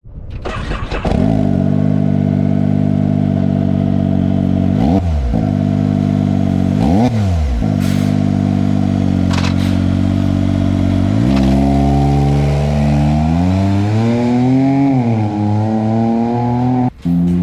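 Can-Am Maverick R's turbocharged three-cylinder engine running through a MAURADER slip-on exhaust. It comes up within the first second and idles steadily, with two short throttle blips about 5 and 7 seconds in. From about two-thirds of the way through it holds higher revs, rising and falling in a larger rev swell, and cuts out briefly just before the end.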